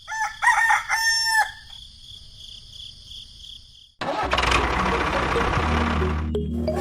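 A rooster crows for about a second and a half. About four seconds in, a motor starts up suddenly and runs steadily with a low hum and a hiss.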